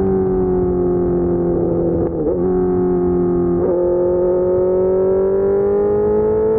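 Suzuki GSX-R600 K4 inline-four running under way through an SC-Project race exhaust, holding a steady high-pitched note. The pitch sags slightly, then climbs slowly, with brief wavers about two and three and a half seconds in.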